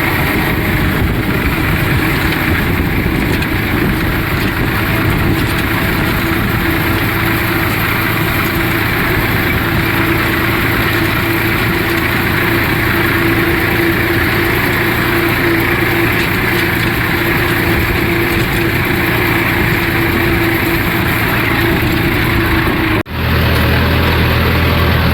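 Massey Ferguson 241 tractor's three-cylinder diesel engine running steadily while pulling a land leveller. Near the end the sound breaks off for a moment and comes back with a deeper, fuller engine hum.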